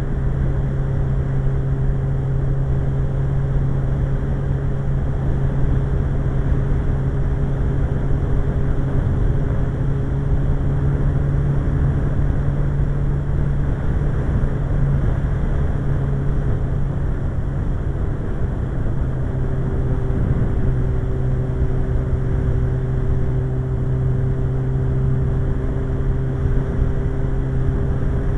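Suzuki GSX-R1100's inline-four engine running at a steady cruising speed, its pitch easing briefly about two-thirds of the way through and then holding steady again.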